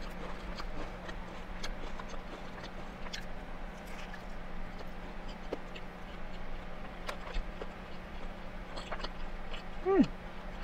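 A person chewing a bite of a parmesan and mozzarella chicken burger patty: soft, scattered mouth clicks over a steady low hum, with a short falling "mm" hum about ten seconds in.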